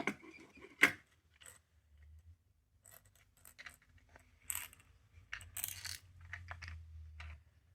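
Scattered light clicks and clatter of small plastic capsule toys being handled, the sharpest click just under a second in.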